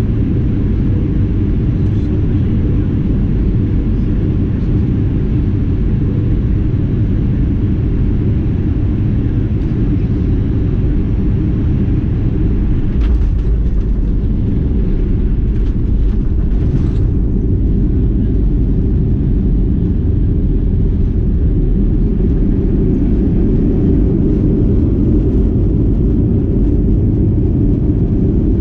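Airbus A319 cabin noise: a loud, steady low rumble of engines and airflow. A few short clicks and rattles come about halfway through, with the rumble growing slightly heavier from then on.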